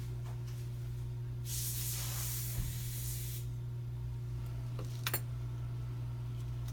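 A hissing blast lasting about two seconds, starting a second and a half in, over a steady low hum; two short clicks follow, the second about five seconds in.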